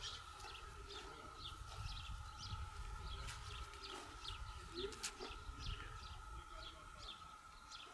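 Small birds chirping repeatedly in short calls, over a low rumble and a steady faint high hum.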